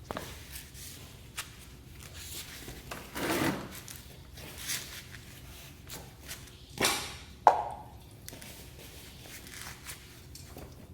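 Irregular knocks, clicks and brief rustles of hand-work with tools and parts during a motorcycle oil change, with one sharp knock about seven and a half seconds in.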